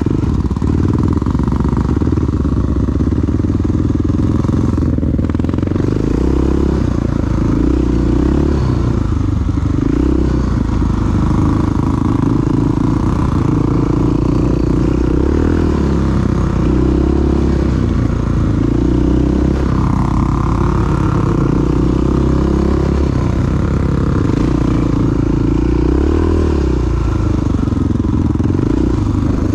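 Big single-cylinder four-stroke dual-sport motorcycle engine running under way, its revs swelling and easing every few seconds as the throttle is worked.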